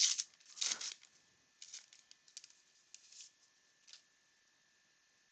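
Baseball card pack wrapper being torn open and crinkled: two sharp rips in the first second, then lighter rustling and handling noises that stop about four seconds in.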